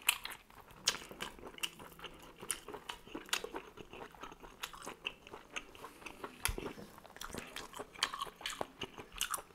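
Close-miked chewing and biting of food from a squid tagine: a run of irregular wet clicks and small crunches from the mouth, with no pause long enough to break it.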